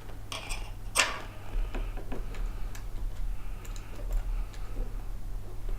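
Scattered light clicks and taps of small hardware being handled, M2 bolts and a motor being positioned against an acrylic printer frame, the sharpest about a second in, over a steady low hum.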